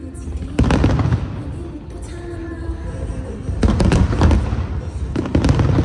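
Aerial fireworks bursting over the harbour: deep booming bangs with crackle, one about half a second in, a cluster of several around the middle-to-late part, and more near the end, with rumbling echo between them.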